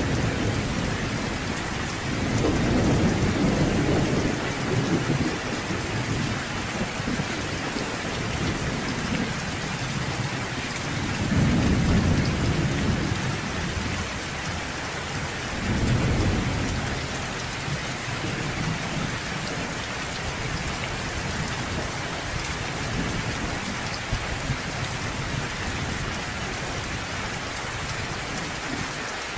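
Steady rain with low rolling thunder that swells up three times: a few seconds in, near the middle, and a few seconds after that.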